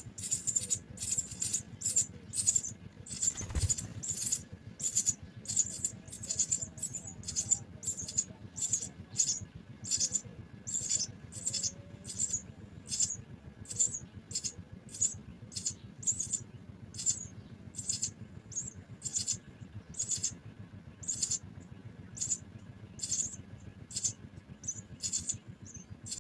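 House sparrows chirping: short, high chirps repeated about twice a second without a break, with a single low thump about three and a half seconds in.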